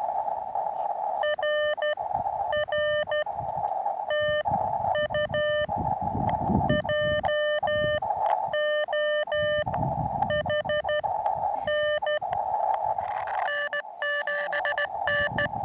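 Morse code (CW) from a portable ham radio transceiver: a mid-pitched tone beeping in short and long pulses, with a hiss of receiver noise filling the gaps between them.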